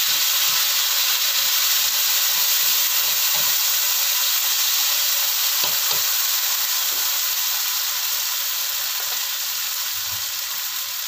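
Ground chili paste sizzling in hot oil in a wok: a loud, steady hiss that slowly fades. A metal spatula knocks and scrapes against the pan a few times.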